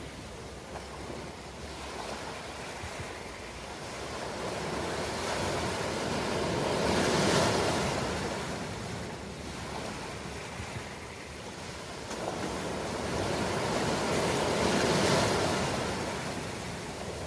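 Ocean surf: two waves build, break and wash out, about eight seconds apart, over a steady background wash.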